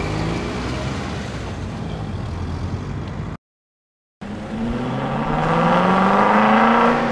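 A Subaru crossover's engine running steadily as it drives through mud. It cuts out after about three seconds, and after a brief silence a C4 Chevrolet Corvette's V8 accelerates, its pitch and loudness rising steadily.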